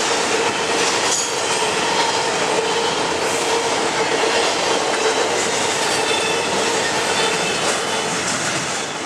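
Intermodal freight train's cars rolling past, wheels clicking over rail joints, with a steady wheel tone that stops near the end.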